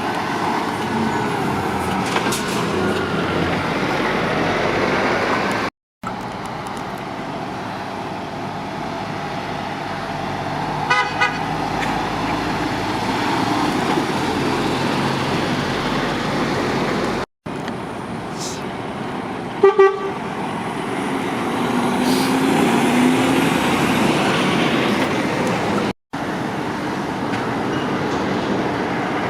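Lorries passing with steady engine and tyre noise, and two short truck horn toots, one about 11 seconds in and a louder one just before 20 seconds. The sound cuts out briefly three times.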